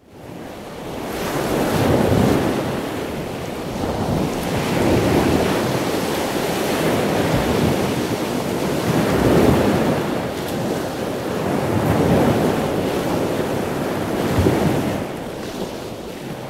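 Ocean waves breaking: a steady rushing noise that swells and eases every few seconds. It fades in at the start and cuts out near the end.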